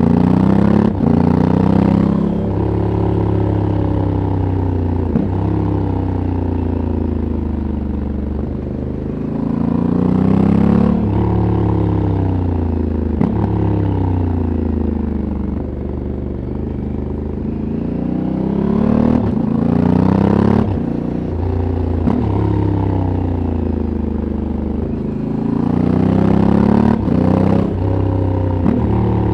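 Stock exhaust of a 2022 Honda CRF1100L Africa Twin's parallel-twin engine, the revs rising under throttle and falling back again and again. Several brief sharp cracks fall among the rev changes.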